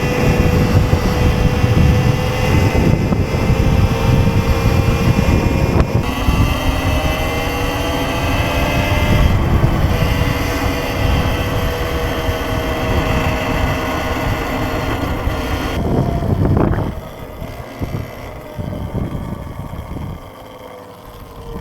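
Sur-Ron electric dirt bike riding at speed: a steady high motor whine that rises and falls with speed over heavy wind noise on the microphone. About sixteen seconds in it drops off sharply as the bike slows, and the whine falls in pitch near the end.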